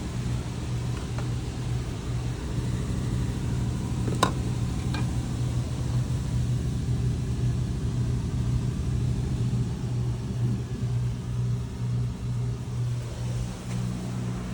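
BMW N54 twin-turbo straight-six running steadily with a constant low drone, a sharp click about four seconds in and a fainter one a second later.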